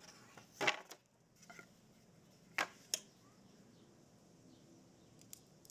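A few sharp knocks and clicks from handling wooden boards and tools. The loudest comes under a second in, and two more come close together near the middle.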